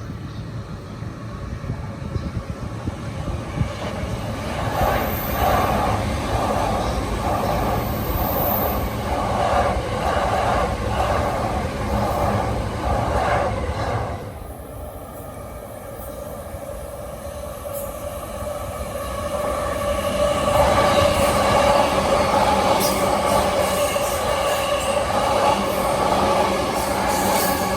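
Electric trains running through at speed. Wheels clatter rhythmically over the rail joints for about ten seconds, and the sound cuts off abruptly. A second train then builds up near the end.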